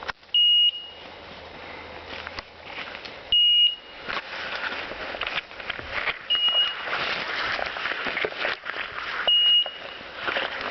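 A hunting dog's beeper collar in point mode, giving a short high beep every three seconds (four times), the signal that the German shorthaired pointer is standing still on point. Between the beeps there is a rustling of brush and movement through the cover, busier from about four seconds in.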